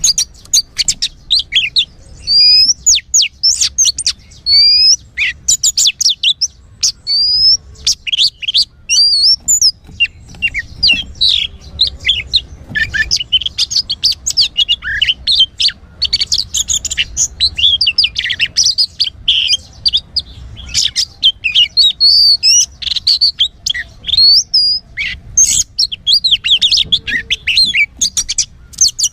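Oriental magpie-robin singing loudly: separate clear whistled phrases for the first ten seconds or so, then a dense, fast run of varied chirps and trills.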